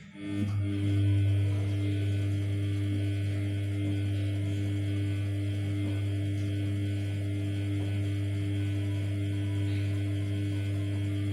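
Samsung P1271 washing machine giving off a steady electrical hum that switches on suddenly, runs evenly for about eleven seconds and cuts off near the end, the sound of one of its mains-powered parts, such as the drain pump or water inlet valve, being energised.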